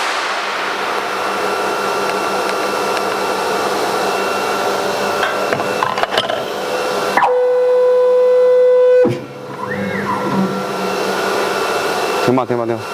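CNC router running, its electric spindle whining steadily over a broad rushing noise. About seven seconds in, a loud steady mid-pitched tone sounds for about two seconds and stops abruptly, after which the machine noise drops for a moment and then returns.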